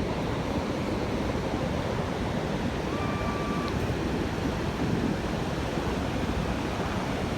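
Ocean surf washing steadily on a sandy beach. About three seconds in, a faint short tone is heard.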